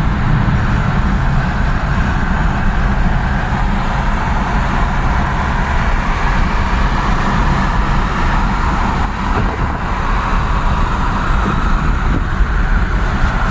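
Steady, loud road and engine noise of a truck being driven along city streets, with a constant low rumble.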